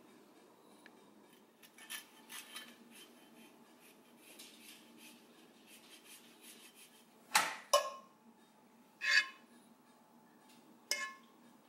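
Cutlery clinking and scraping on plates during a meal: scattered short clinks, loudest a pair of sharp clinks a little past halfway and another near the end.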